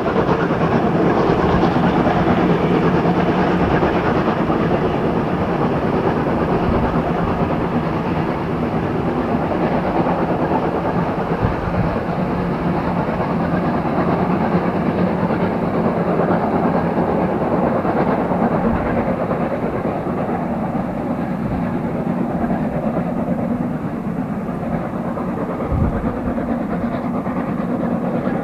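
Steam-hauled passenger train running past, its wheels clattering steadily over the rail joints.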